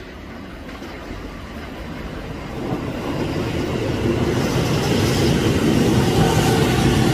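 Electric train on the Keio Sagamihara Line approaching along the track, its running noise and wheel clatter growing steadily louder over about four seconds and then holding loud and steady as it draws level.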